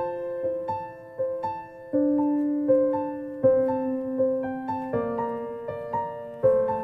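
Soft piano music: single notes struck about twice a second, each fading, over chords that change every second or two.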